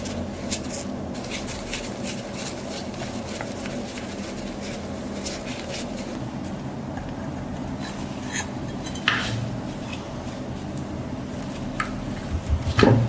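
Small metal parts clinking and tapping, with a couple of louder knocks about nine seconds in and near the end, over a steady low hum.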